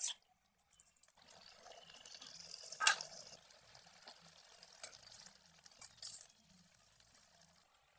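Faint liquid sounds, with a handful of sharp clicks, the loudest about three seconds in.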